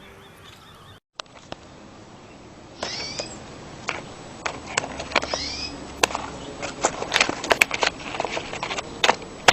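Two short arching animal calls a couple of seconds apart, among many sharp clicks and knocks that grow busier near the end.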